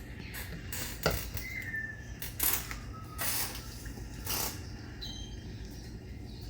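Baby caique chicks being hand-fed, giving short high squeaks and a few raspy, hissy bursts.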